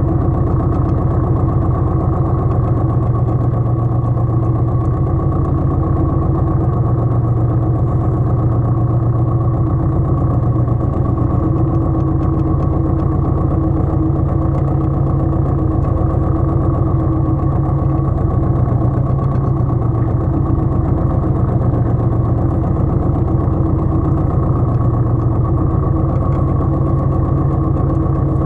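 Pasquali 980 EX compact tractor's engine running steadily at a constant speed.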